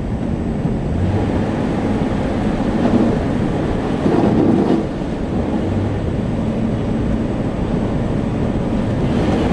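A car driving through water on a flooded road, heard from inside the cabin: a steady rushing rumble of tyres and water under the car that swells twice, about four seconds in and near the end.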